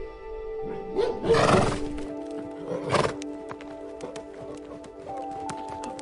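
A horse neighing about a second in and again briefly around three seconds, followed by a run of sharp hoof clicks, over steady background music.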